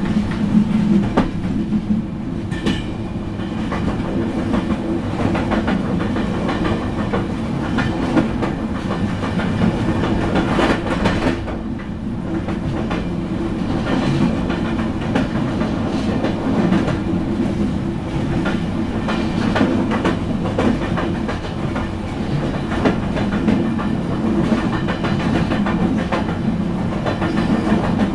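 Steady rumble of a passenger train's last carriage running along the track, heard from inside the carriage, with frequent irregular clicks and knocks of the wheels over the rails.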